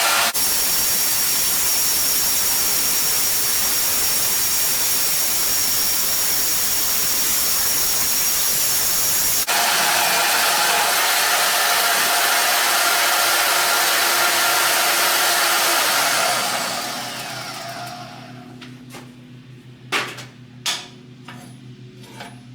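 Power tool cutting through a piece of steel: a loud, steady run with a high whine. About 16 seconds in the motor shuts off and spins down, and two sharp knocks follow.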